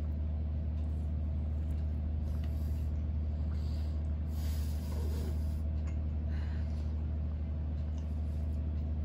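Close-miked chewing of soft banana and walnut cake over a steady low hum. A brief hissing noise comes about four and a half seconds in.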